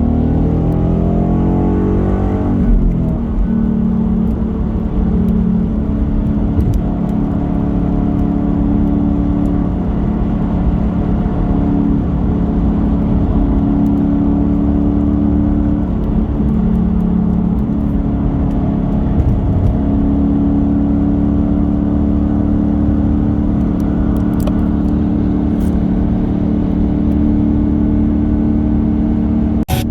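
Car engine revving up over the first couple of seconds, then holding a steady drone, its pitch shifting slightly around the middle.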